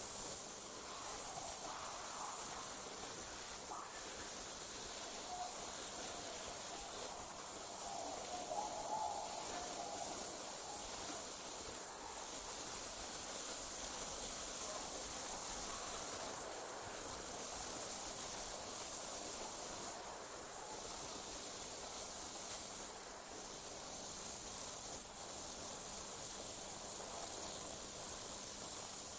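Crickets trilling in a continuous high-pitched night chorus, broken by short pauses every few seconds.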